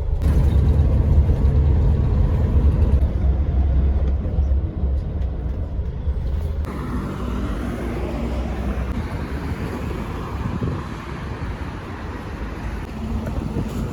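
Low engine and road rumble of a moving motor vehicle for about six and a half seconds, then a sudden change to a lighter, even hiss of street traffic.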